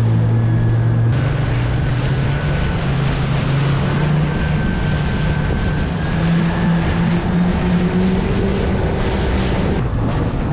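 Jet ski engine running, with wind and water rushing past. The engine note shifts up in pitch about halfway through and settles back down a little later.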